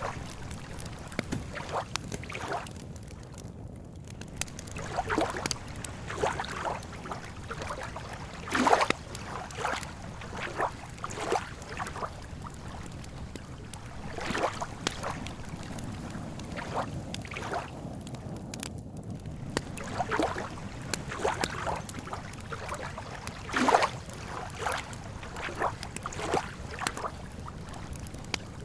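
Lake water lapping against the shore: small, soft splashes at irregular intervals of about a second over a steady low wash, with two louder slaps, one about nine seconds in and one near the end.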